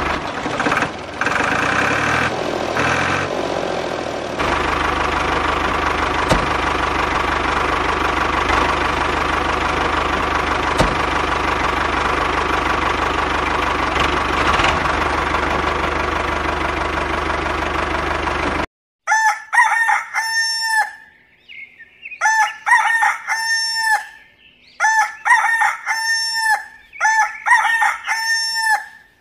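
A small machine runs steadily with a constant hum, then cuts off abruptly about two-thirds of the way through. A rooster then crows several times in quick succession.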